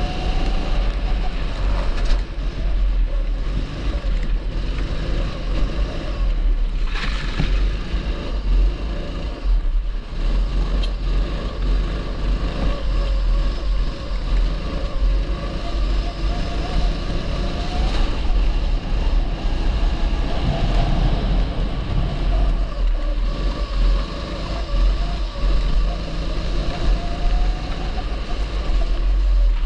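A 270cc single-cylinder four-stroke kart engine running hard, its pitch rising and falling as it accelerates and lifts through corners. Heavy wind buffeting on the microphone underlies it.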